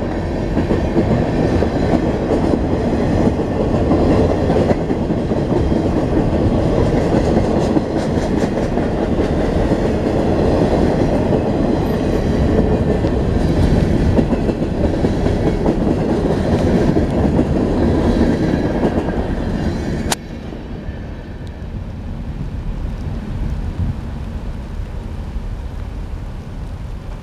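Freight train cars rolling past close by, steel wheels rumbling and clacking over the rail joints. About two-thirds of the way through, the sound drops off sharply to a quieter steady hiss.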